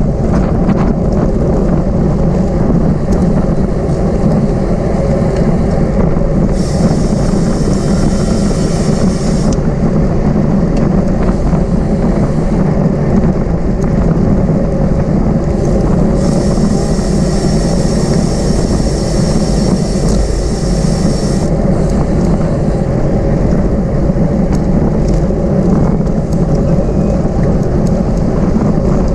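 Steady wind rush and tyre noise on a camera mounted on a racing bicycle while riding. Twice, for about three and five seconds, a high buzzing sound joins in and then stops.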